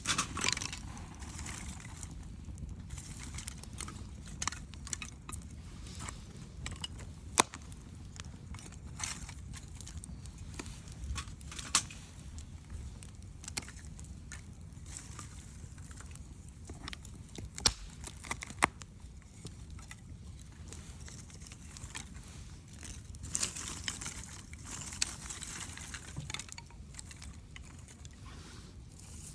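Wood fire crackling, with sharp pops scattered irregularly over a low steady rumble, and a spell of brighter hissing a few seconds before the end.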